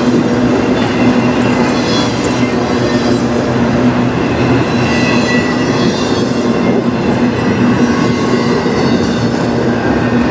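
Loaded freight train of autorack cars rolling past close by: steady rumble of steel wheels on rail, with thin high wheel-squeal tones that come and go.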